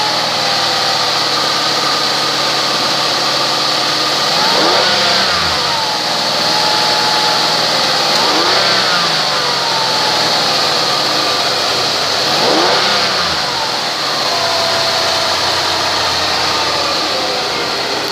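Ford Escape engine running just after starting, revved briefly three times a few seconds apart and settling back to idle between, with a steady high-pitched whine under it.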